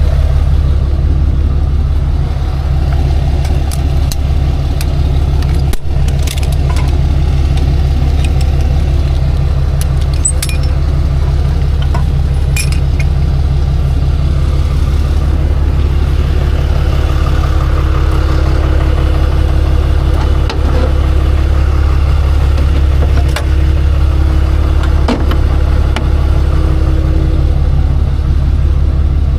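Tow truck's engine running steadily, with scattered clicks and clanks. A steady higher hum joins in for about ten seconds past the middle.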